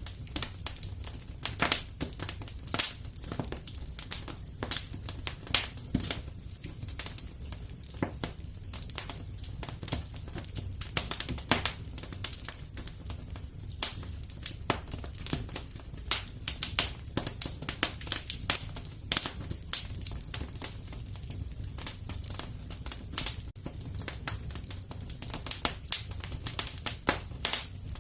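Fireplace fire crackling: many sharp, irregular pops over a low, steady rumble of the flames.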